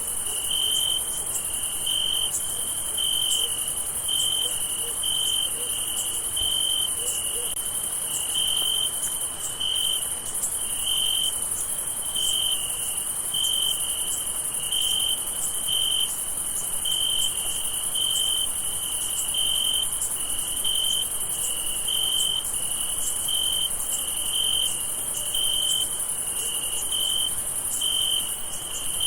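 Night chorus of crickets: one cricket chirping evenly, about three chirps every two seconds, over a steady high-pitched insect trill.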